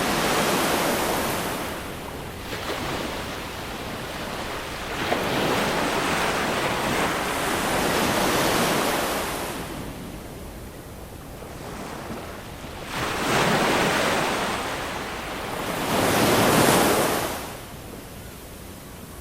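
Ocean waves breaking and washing up the shore, the surf swelling and ebbing several times, with the last and loudest wash near the end before it falls away.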